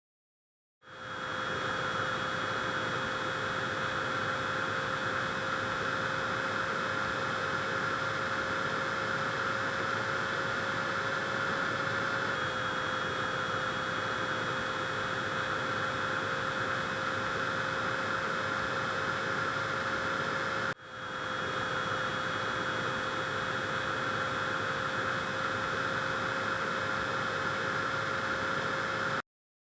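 Miniature air-conditioner fan running at a steady speed, a constant whir of air with a steady hum from its small motor; the sound breaks off for an instant about two-thirds of the way through, then resumes.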